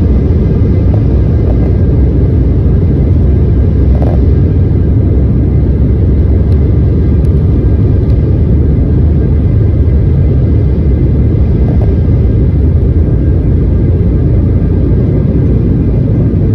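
Steady, loud low rumble of a running vehicle, with faint steady engine tones above it.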